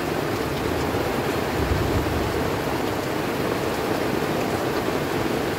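Heavy rain pouring steadily onto the tent, heard from inside it as a dense, even hiss.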